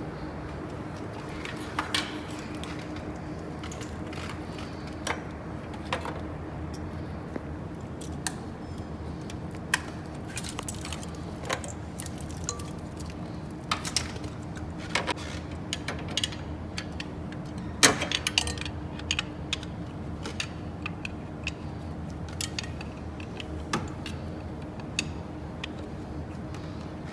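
Metal tools and engine parts clinking and tapping at irregular intervals during engine disassembly, with one sharper clank about two-thirds of the way through, over a steady background hum.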